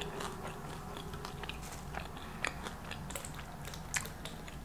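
Close-miked chewing of a crispy fried avocado egg roll: soft, irregular crunches and wet mouth clicks.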